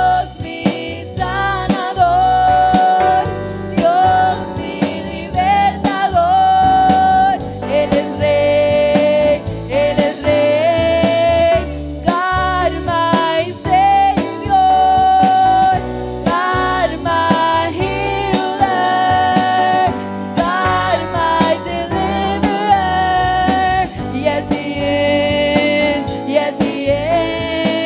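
Church worship band playing a gospel praise song, with a lead voice singing the melody over the instruments.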